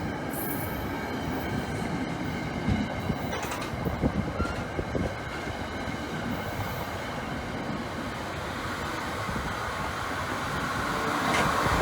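Train rolling past on steel rails, with a steady rumble and scattered wheel clicks and knocks.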